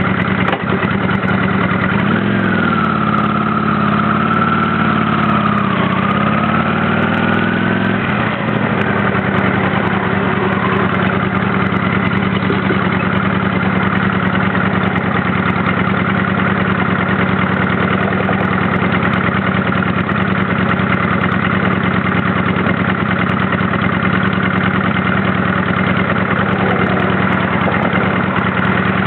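Honda Shadow 600's V-twin engine running, its pitch rising, dipping and rising again for a few seconds about two seconds in, then holding steady.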